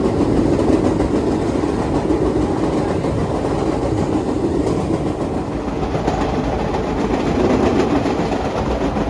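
1930s-built R1-9 subway car running along the track: a steady, loud rumble of wheels and running gear on the rails.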